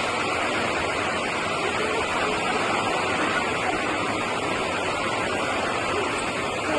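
Heavy rainwater pouring down: a steady, unbroken rushing hiss of water.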